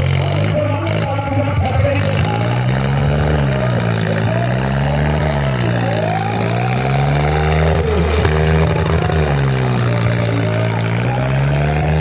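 Tractor engine revving up and falling back over and over, its pitch rising and dropping about every three seconds, as in tractor stunt driving.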